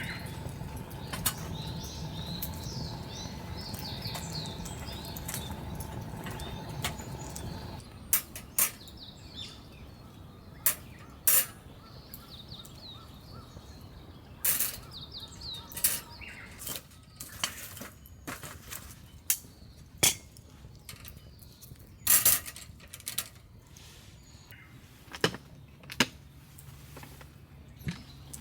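Small birds chirping over a steady low rumble that stops suddenly about eight seconds in. After that, irregular sharp clicks and knocks sound every second or so while the chirping goes on.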